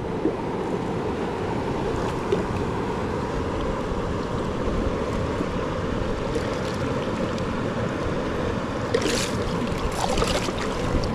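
Steady rushing of river water, with a few brief scuffing or splashing noises about nine seconds in.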